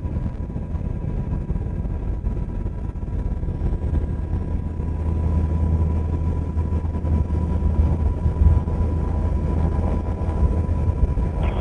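UH-60 Black Hawk helicopter's rotor and turbine noise heard from inside the aircraft: a steady low drone that grows stronger about four seconds in, with the helicopter holding a hover.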